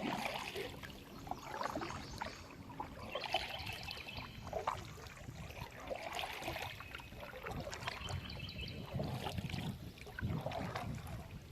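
Kayak paddle blades dipping and pulling through the water, with splashes and drips recurring every second or two.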